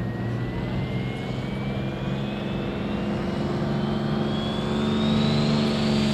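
Pro Stock pulling tractor's turbocharged diesel engine running and climbing in revs, getting louder, with a high turbo whine rising steadily in pitch.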